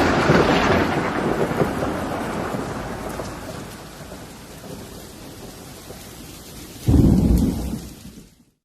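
A thunderclap rumbles over steady rain and dies away over several seconds, leaving the rain hissing. A second rumble of thunder breaks about seven seconds in and fades out.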